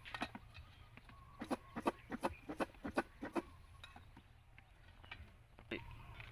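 Java plums being shaken with chili salt in a container, a rhythmic rattle of knocks at about four a second. It comes in two runs with a pause, then a few scattered knocks and one stronger knock near the end.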